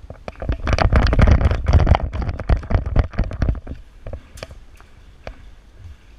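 Hurried running footsteps and rattling gear picked up by a body-worn camera, a dense irregular clatter of thumps over the first half, then a few separate sharp clicks.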